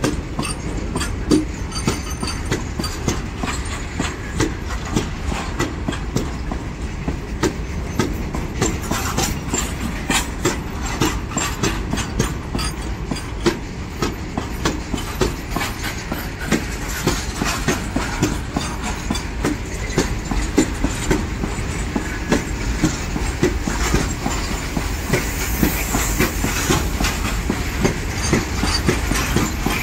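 An Indian Railways freight train of open-top steel wagons passes close at speed. The wheels give a steady rumble with dense clickety-clack as the wheel sets run over the rail joints.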